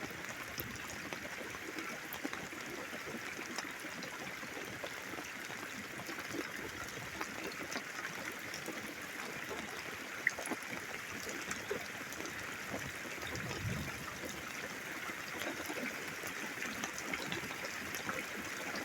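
Steady thunderstorm rain with water trickling and dripping, many small drop ticks through it. A brief low rumble comes about two-thirds of the way through.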